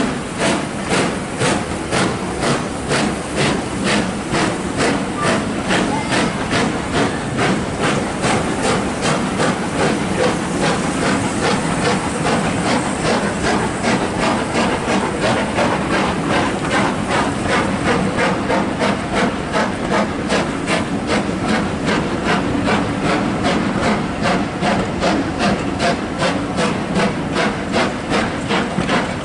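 Steam locomotive working steadily, its exhaust beating about twice a second over a constant hiss of steam; the LMS Black Five 4-6-0 No. 45212.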